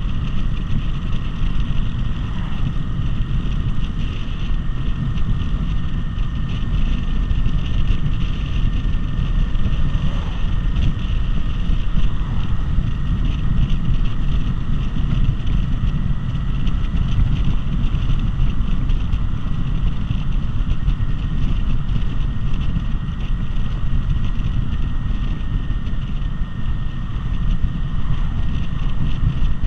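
V-twin cruiser motorcycle riding steadily, its engine drone mixed with heavy wind noise on the microphone and a faint steady high whine.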